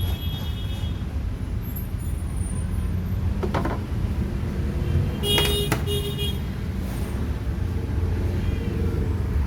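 Maspion washing machine running with its pulsator turning: a steady low rumble, with a short rising squeak about three and a half seconds in and a brief high-pitched tone about five and a half seconds in.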